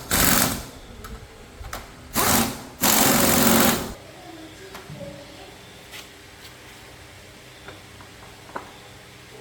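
A power tool running in three short, loud, rapidly rattling bursts over the first four seconds, then stopping, leaving a low steady background with a few light clicks.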